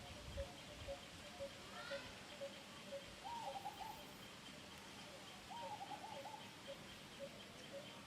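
Faint bird calls: a small pip repeating about twice a second, a rising call, and two short warbling phrases a couple of seconds apart.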